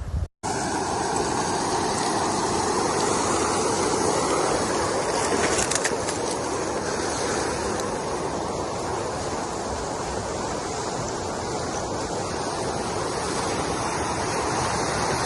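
Floodwater rushing steadily, a continuous even roar of water that starts just after a brief cut at the very beginning.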